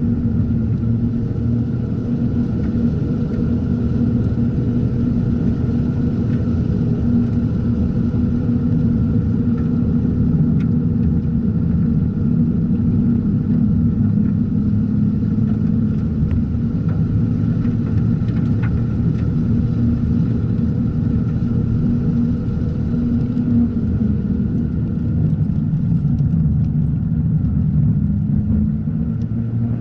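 Mazda RX-8's two-rotor Renesis rotary engine running hard at track speed. Its note eases off about 24 seconds in and builds again near the end.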